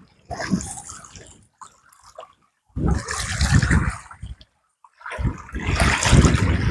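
Sea water washing against the shore in three surges, each one to two seconds long, with short silent gaps between.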